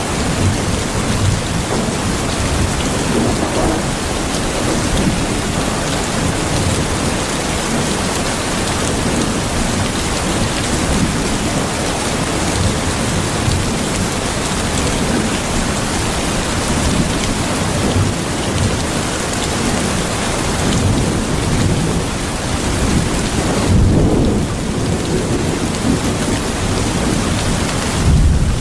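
Steady heavy rain pouring down, with low rumbles of thunder swelling a few times, loudest near the end.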